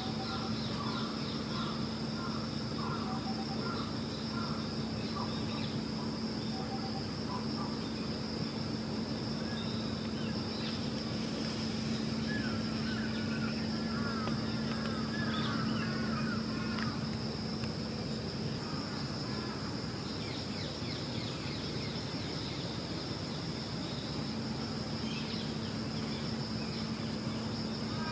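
Outdoor ambience: a steady hiss with a constant low hum and a high steady tone, with small birds calling over it. There is a quick run of short chirps near the start and a series of sweeping calls around the middle.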